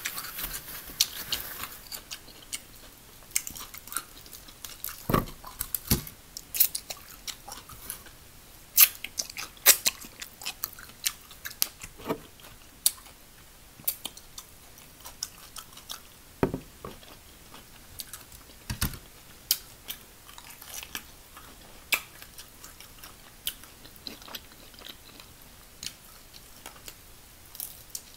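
Close-miked chewing and biting of crispy battered fried chicken, with irregular crunches and wet mouth clicks, and a few low knocks scattered through.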